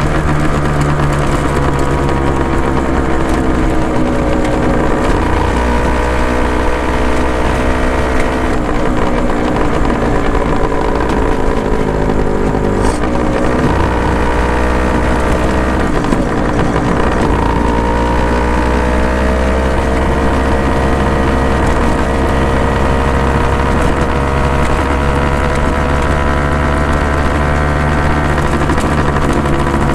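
Honda NSR250 (MC21) two-stroke V-twin breathing through Dog Fight Racing expansion chambers, running with its engine pitch sagging and climbing several times.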